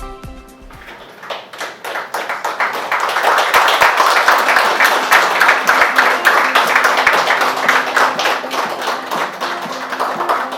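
A crowd applauding: dense clapping that builds about a second in, holds, then slowly dies down, over faint background music.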